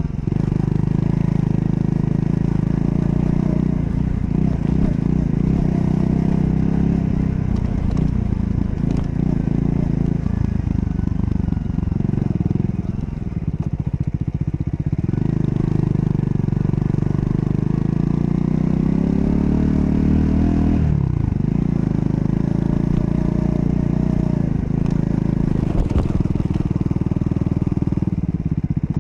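Triumph Scrambler 400 X's single-cylinder engine under way, pulling through the gears. The revs climb steadily for several seconds, then drop sharply at a shift about two-thirds of the way in and climb again. There is a brief dip in the revs near the end.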